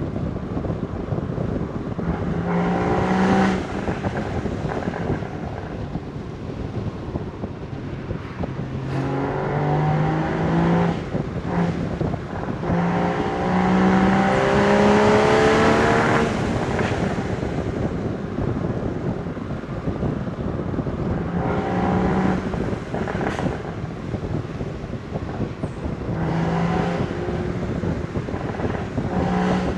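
Porsche Boxster Spyder 981's 3.8-litre flat-six exhaust under repeated acceleration, the engine note rising and stepping up through gear changes, with lifts off the throttle in between. There are a few sharp cracks over steady wind and road noise.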